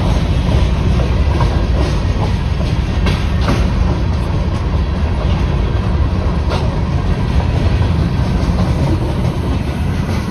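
Freight train's hopper cars rolling past at close range: a steady, loud rumble of steel wheels on rail, with wheels clicking over rail joints now and then.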